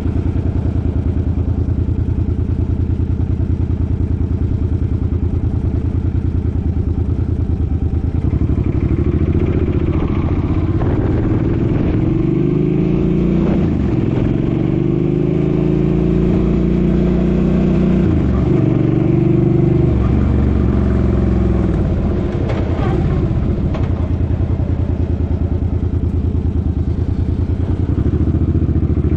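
Suzuki Boulevard M50's 805 cc V-twin engine running steadily, then accelerating through several upshifts, its pitch rising and dropping back at each shift. It settles into a steady cruise near the end.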